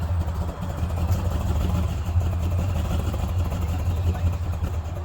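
A car engine running with a deep, steady low rumble, growing louder as it comes in and fading just after, as the car rolls slowly past.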